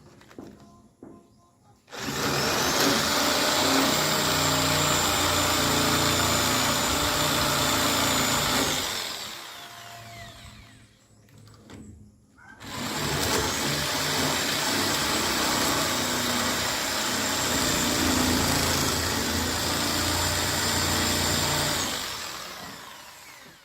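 Handheld electric power tool run twice for several seconds each, its motor whining steadily, spinning up at the start of each run and winding down at the end.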